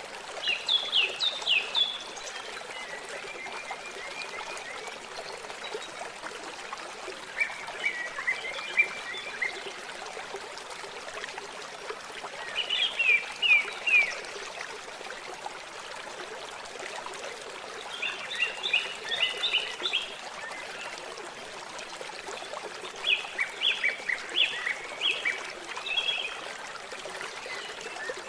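Steady trickling, running water, with a small songbird singing short phrases of quick high notes, about once every four to five seconds.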